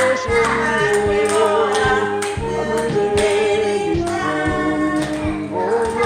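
A group singing a Christian hymn together over instrumental accompaniment with a steady beat. The voices hold long, wavering notes.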